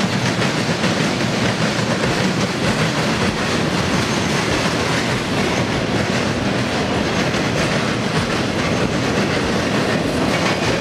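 Freight train cars rolling past at close range: a loud, steady noise of steel wheels running on the rails.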